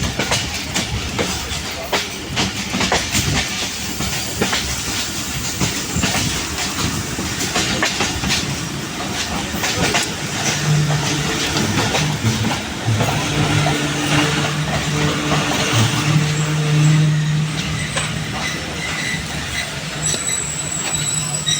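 Passenger train running on the track, its wheels clicking over the rail joints. From about halfway a steady low hum joins the running noise, and near the end a faint high-pitched whine comes in.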